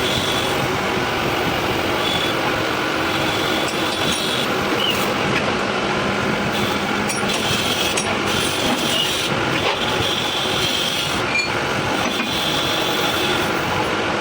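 A workshop machine running steadily, with a short high whine that comes and goes several times.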